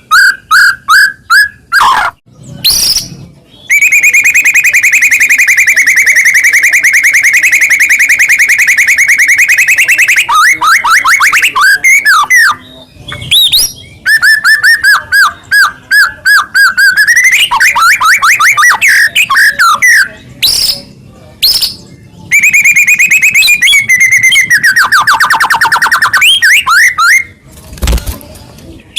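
White-rumped shama in full, loud song. It gives two long, very fast rattling trills, each lasting several seconds, with bursts of quick, sweeping repeated notes in between.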